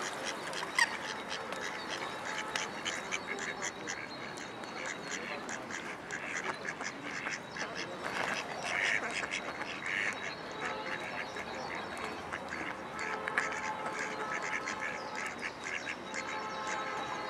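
Female mallard quacking in quick repeated calls. A steady pitched tone comes in near the end.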